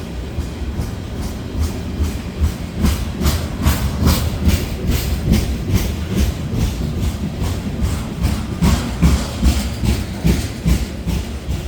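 Grain hopper cars of a long freight train rolling slowly past, a low rumble with steel wheels clicking over the track in uneven clusters.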